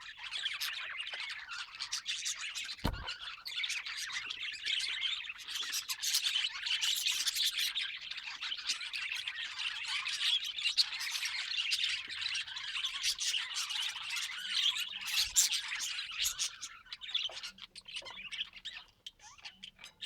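Many budgerigars chattering and squawking at once, a dense unbroken chatter of calls, with a single dull knock about three seconds in; the chatter thins out near the end.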